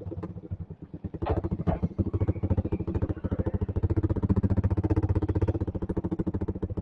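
Motorcycle with an open aftermarket 'brong' exhaust idling, its exhaust popping in a rapid, even beat that grows louder about a second in.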